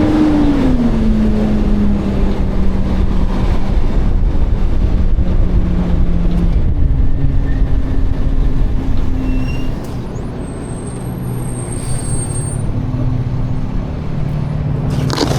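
Garbage truck's diesel engine running. Its pitch drops about a second in as the revs fall, then it holds steady.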